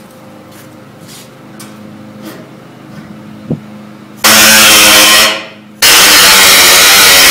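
Low shop background with one click about three and a half seconds in. Then a power tool starts up very loud, cutting sheet steel; it winds down after about a second and starts again half a second later.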